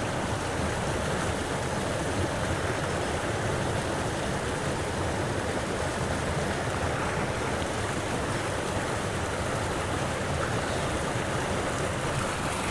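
Steady rushing noise of wind buffeting the microphone outdoors, even and unbroken, with a heavy low rumble.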